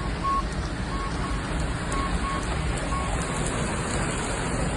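Steady rush of floodwater, with a repeating electronic warning beep, two short high beeps about once a second, that stops about three and a half seconds in.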